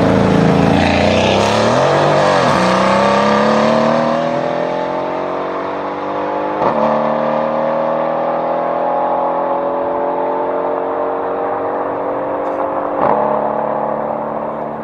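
Mercedes-AMG C63 S Coupe's twin-turbo V8 through straight pipes, accelerating. Its note dips briefly, then climbs steadily in pitch, with two sharp cracks along the way.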